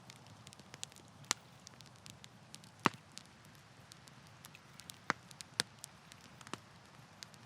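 Campfire crackling: irregular sharp pops and snaps of burning wood over a soft low hiss, with one louder pop about three seconds in.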